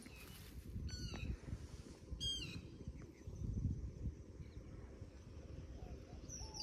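Two short, high-pitched bird calls, about one and two seconds in, over a low, uneven rumble.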